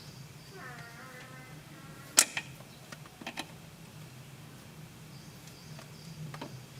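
A few sharp knocks and clinks, as from tools and metal engine parts being handled, the loudest about two seconds in, over a low steady hum.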